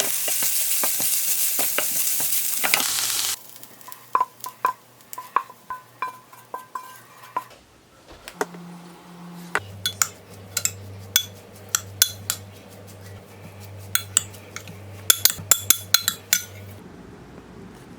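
Food sizzling in a frying pan, cut off suddenly about three seconds in. Then scattered light clinks and taps of a cooking utensil on a pan or bowl, with a low steady hum through the second half.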